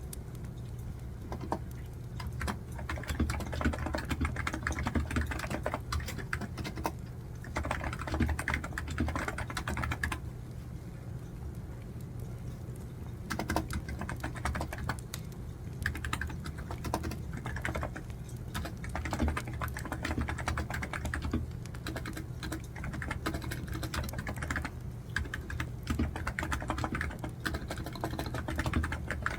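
Typing on a computer keyboard in fast runs of key clicks, broken by short pauses, over a steady low hum.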